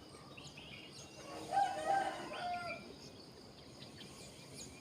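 A rooster crowing once, about a second and a half in, over faint chirping of small birds.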